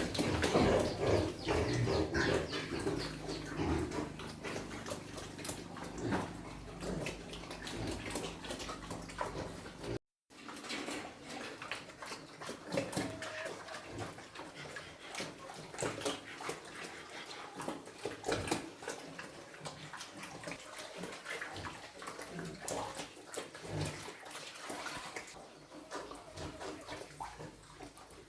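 Pigs grunting and slurping at a trough, with wet feed sloshing.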